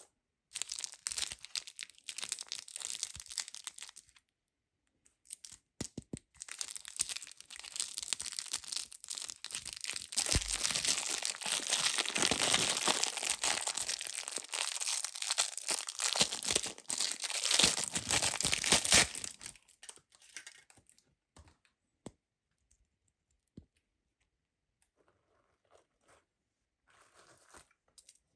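Scratchy, crunching noise of caked sand and mud being scraped and rubbed off a toy car, in a short spell and then a long one that grows louder, followed by a few scattered light clicks.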